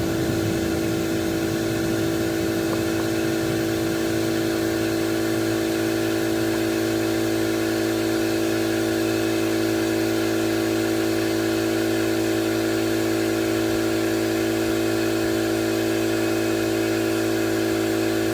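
Electric air compressor running steadily, a constant pitched hum, while air flows through the inflator into a flat tire with a steady hiss.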